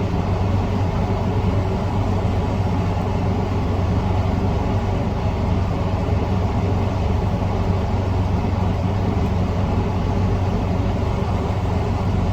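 A steady, unchanging low mechanical hum with an even hiss, like a motor or fan running.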